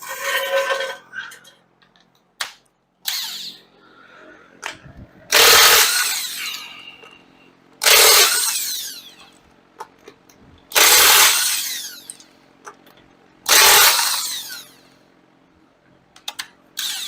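A power tool run in four short bursts about every two and a half seconds, each winding down after the trigger is let go: the car's wheel lug nuts being spun off.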